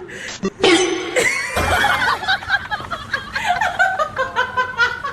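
A person laughing in quick repeated pulses.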